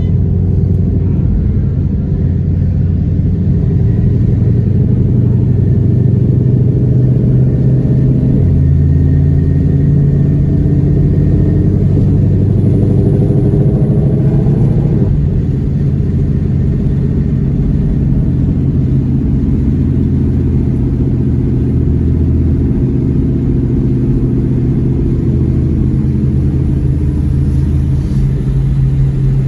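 2020 Shelby GT500's supercharged V8 running under way, a steady drone with road rumble. The engine note climbs from about eight seconds in, drops sharply at about fifteen seconds, then eases down slowly.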